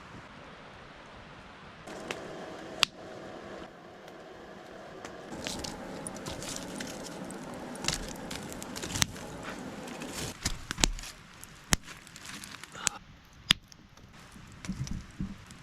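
Campfire crackling: sharp pops and snaps at irregular times over a steady low hiss.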